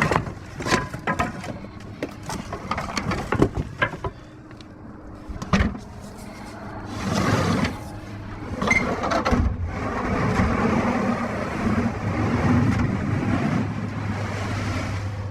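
Knocks and clatters of junk being shifted and handled in a metal dumpster. From about seven seconds a steady rushing noise with a low hum takes over.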